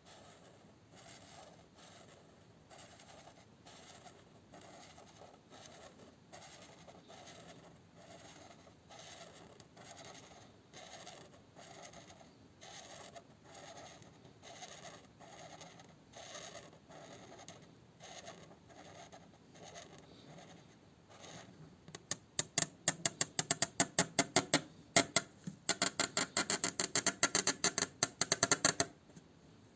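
A drawing tool scratching across paper in steady, evenly spaced strokes, a little over one a second. About two-thirds of the way in, the strokes turn much louder and rapid, a fast scratching scribble with a short break, which stops near the end.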